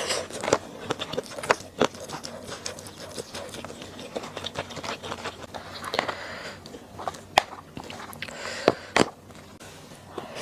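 Close-miked eating sounds: chewing with irregular wet mouth clicks and smacks, a few sharper ones near the end.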